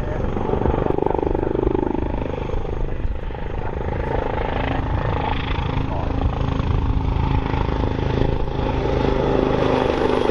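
Royal Navy AgustaWestland AW159 Wildcat helicopter flying a display, with steady rotor and turbine engine noise that grows slightly louder near the end.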